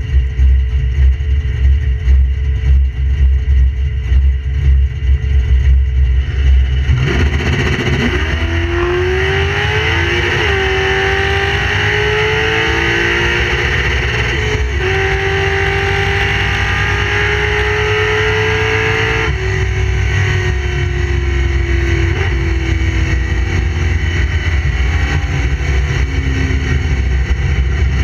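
Mustang drag car's engine heard from inside the cabin: a choppy idle for about seven seconds, then a full-throttle quarter-mile run from about eight seconds in, its pitch climbing and breaking at each gear change. About nineteen seconds in the throttle comes off and the pitch falls as the car slows. The pass, 10.80 s at 125 mph, includes a missed 2-3 shift.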